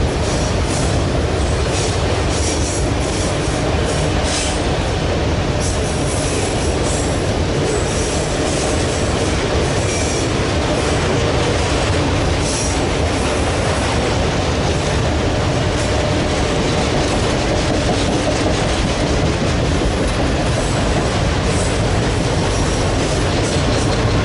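Freight train cars rolling past close by: a steady loud rumble of steel wheels on rail, with brief high-pitched wheel squeals now and then.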